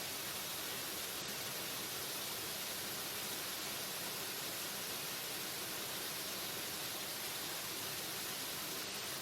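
Waterfall: falling water with a steady, unbroken rush, brightest in the hiss of spray and splash and without any change in level.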